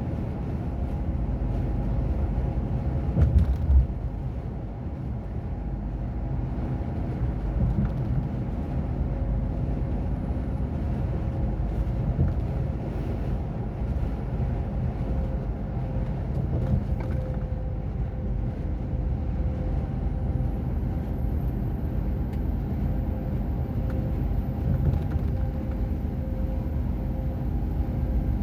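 Heavy truck's diesel engine running at a steady speed with low road and tyre rumble while driving, with a brief louder bump about three seconds in.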